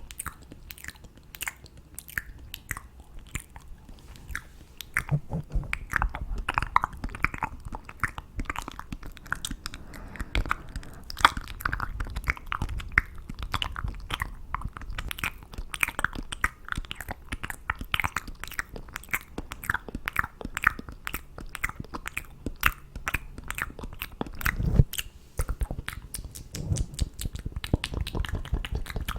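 ASMR mouth sounds close to the microphone: a rapid run of small clicks and smacks of lips and tongue, several a second, with a few heavier smacks among them.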